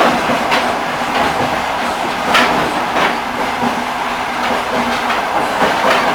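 Railway carriage wheels clattering over the rails under a steady running rumble, with sharp knocks at uneven intervals, the loudest about two and a half seconds in.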